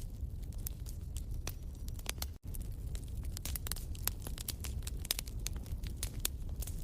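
Wood fire burning in a fireplace, crackling with many sharp pops over a steady low rumble of flames. The sound cuts out for an instant about two and a half seconds in.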